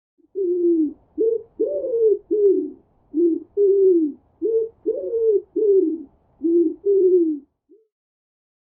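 Pigeon cooing: a run of about a dozen low coos, several falling in pitch.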